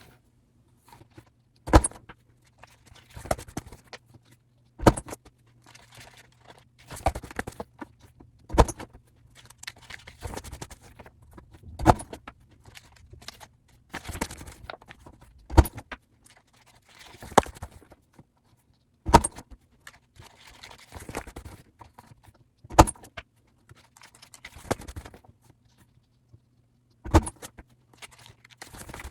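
Laser printer running off page after page: a sharp clack about every three and a half seconds as each sheet feeds through, with the whir and rustle of paper between them over a low steady hum.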